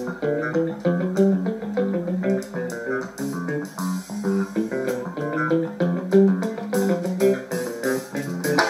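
Recorded music with guitar and bass, played from a CD player through the amplifier being tested.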